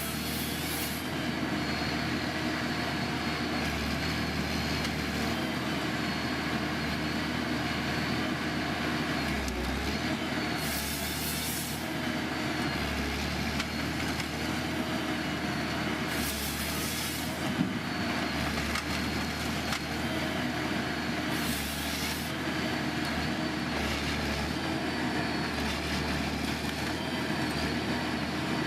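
Heavy machinery running steadily, with short bursts of hiss about a second long four times.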